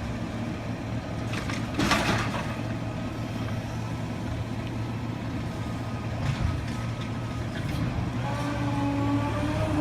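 Refuse truck's diesel engine running steadily, with a brief hiss about two seconds in. Near the end a wavering, stacked whine comes in over the engine.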